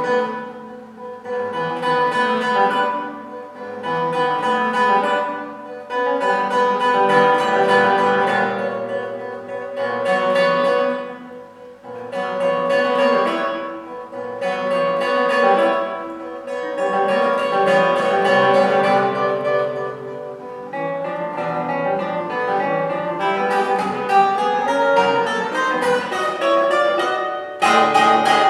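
Solo classical guitar playing, its plucked notes ringing in phrases that swell and fade about every two seconds, turning to quicker, denser notes in the last third, with a loud, bright attack near the end.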